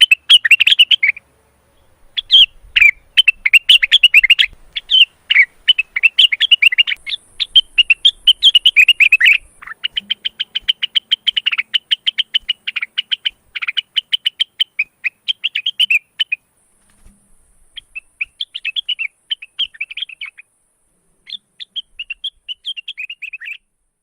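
Male lesser green leafbird (cucak wilis/rengganis) singing in breeding condition: rapid, chattering phrases of quick high notes, broken by short pauses, stopping shortly before the end.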